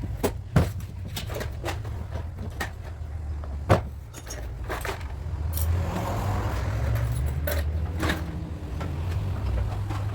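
Scattered sharp knocks and clicks, the loudest about half a second in and again near four seconds, over a steady low hum, with a brief rush of noise around the middle.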